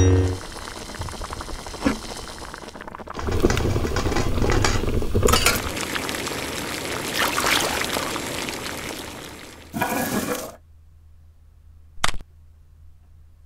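Water bubbling at a boil in a steel pot holding plastic LEGO bricks, with light clinking, swelling and then fading out. A single sharp plastic click comes near the end.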